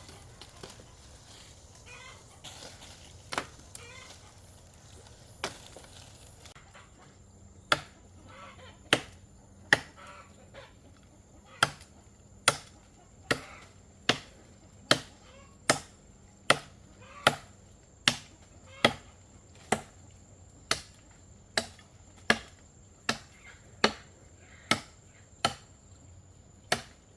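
A blade chopping into wood: a few scattered strikes, then a steady run of sharp chops a little over one a second from about eight seconds in.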